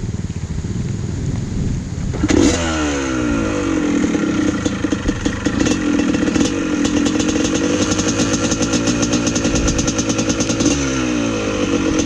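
Dirt bike engine running low, then revved hard a little over two seconds in and held at high revs with a rapid clatter, before the revs drop near the end.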